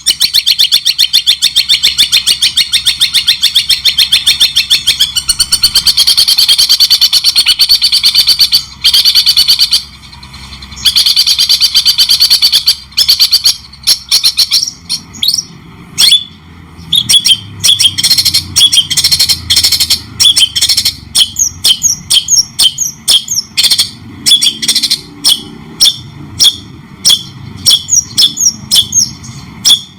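Songbird singing loudly: a fast, continuous chatter of rapid repeated notes for roughly the first half, broken by a couple of short pauses, then separate sharp rising notes about one or two a second.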